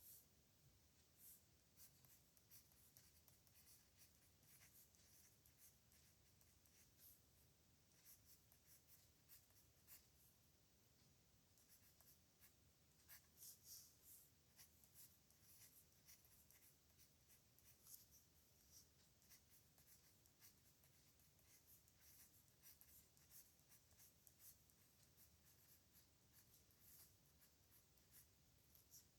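A pen nib scratching across paper in many short, irregular strokes as characters are handwritten, faint.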